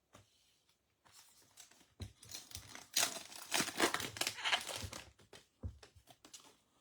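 Crinkling of a foil trading-card pack wrapper being handled, a dense run of crackles for about three seconds in the middle, with a few light clicks before and after.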